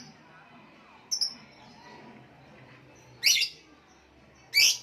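Lovebird calling in short, sharp, high-pitched chirps: a faint one about a second in, then two loud ones near three and four and a half seconds.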